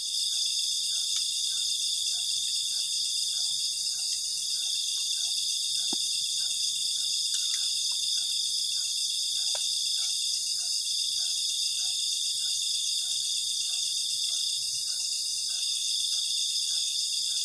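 Night chorus of crickets: a steady, high-pitched trilling without a break, with a fainter call repeating about once or twice a second beneath it and a couple of faint ticks.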